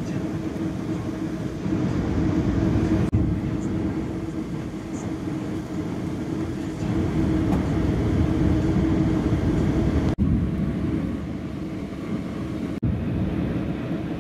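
Metrolink passenger train running along the tracks, heard from inside the coach: a continuous low rumble of wheels on rail with a steady low hum. The sound dips sharply for an instant three times.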